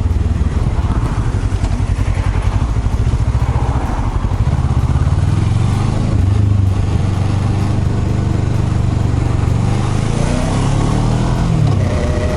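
Kawasaki ER-6n's parallel-twin engine running under way at steady revs, its note dipping and coming back up near the end.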